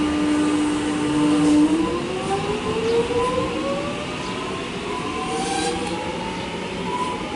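Electric suburban train pulling away: its traction motor whine holds one steady tone for a moment, then several tones rise together as the train gathers speed.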